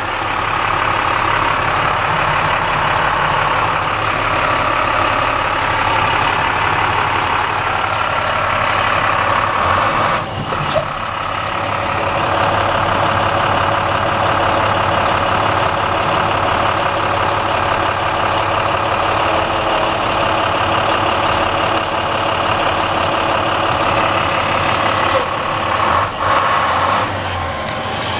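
Diesel engine of a 2012 International 7400 plow truck running steadily at idle, with two brief dips in the sound about ten seconds in and near the end.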